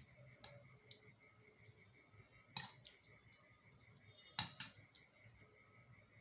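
Quiet eating sounds from a person eating crisp fried food by hand: a few sharp crunches or clicks, one about two and a half seconds in and a close pair a couple of seconds later, over a faint steady hiss.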